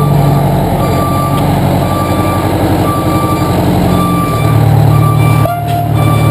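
Fire engine backing up: its reverse alarm beeps steadily about once a second over the running engine, whose note drops about four seconds in.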